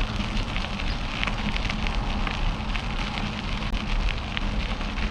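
Mountain bike rolling along a trail: a steady crackle of tyres on the trail surface, with low wind rumble on the microphone.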